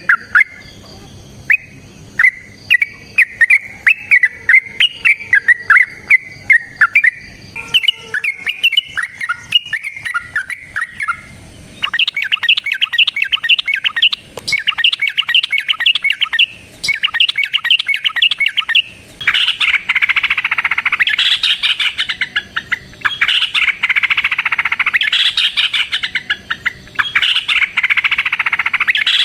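Yellow-vented bulbuls singing in quick, bubbly chirping phrases. About twelve seconds in they break into long, rapid rolling runs of notes. Later the runs turn into dense, loud chattering, the long 'ropel' song of a bird in fighting mood.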